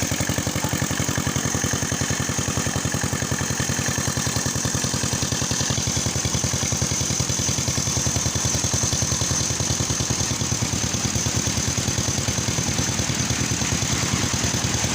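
A small engine running steadily with an even, rapid firing beat.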